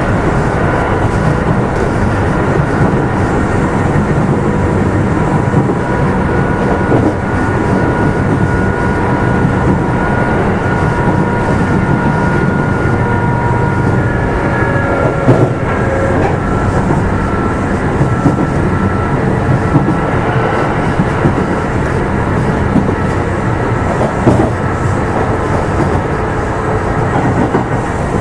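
Kintetsu 2800 series electric train running at speed, heard from inside the motor car: a steady rumble of wheels on rail with a few faint whining tones from the drive, and a couple of sharp knocks from rail joints.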